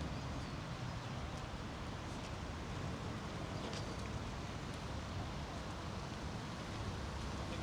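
City street ambience: a steady low hum of distant traffic, with a few faint ticks.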